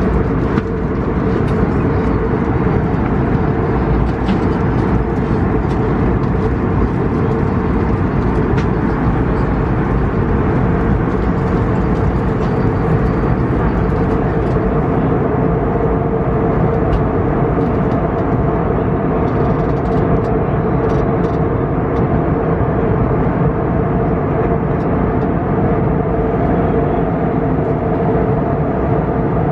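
Steady cabin noise of an Airbus A321neo in flight: an even rush of airflow and engine noise with a constant low hum.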